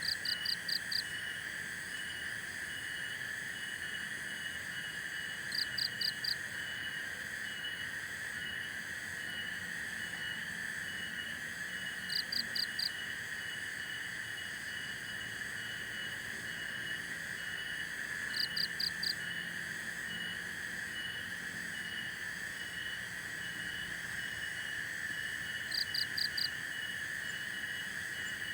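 Chorus of insects such as crickets: a steady high drone with a regular chirping above it. About every six seconds a quick run of four short, higher notes stands out as the loudest sound.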